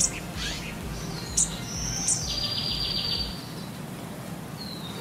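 Birds chirping: a few short, sharp chirps, then a brief buzzy trill, and a single falling whistle near the end.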